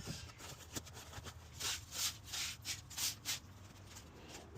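A few short, faint scraping strokes, about five in two seconds around the middle, as of something being rubbed by hand.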